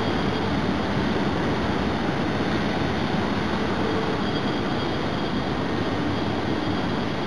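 Train hauled by KTMB locomotive 25102 running along the track: a steady rumble of engine and wheels on rail, with no change in pace.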